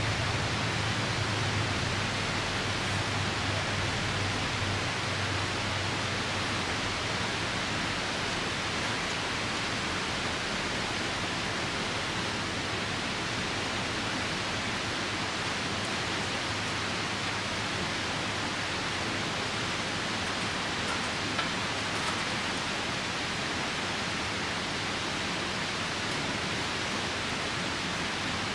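A steady, even rush of a nearby river mixed with falling rain. One faint tick about three-quarters of the way through.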